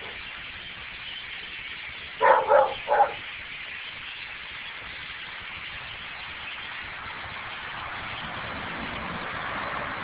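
A dog barks three times in quick succession about two seconds in, over a steady background hiss.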